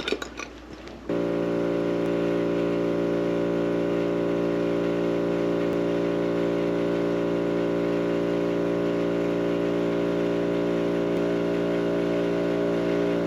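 A small engine running steadily at one constant speed, a low, even drone that starts abruptly about a second in.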